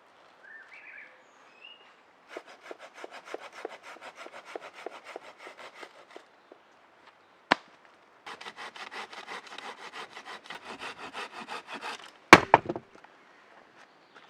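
Hand saw cutting wood in two runs of quick, even back-and-forth strokes, with a sharp crack between the runs and a few loud cracks near the end.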